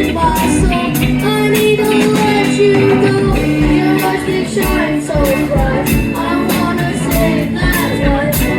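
A rock band playing a song: a singer over guitar and a steady drum beat.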